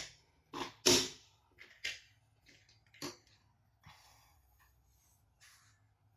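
Hard plastic toys knocking and clicking as they are handled: two sharp knocks right at the start, single ones about two and three seconds in, then a fainter brief scuffle and a last light click.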